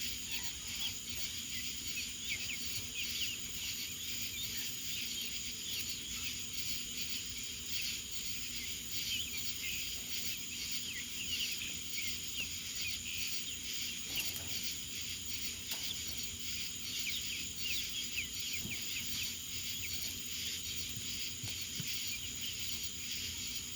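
Small birds chirping with many short, high chirps, over a steady high-pitched insect drone.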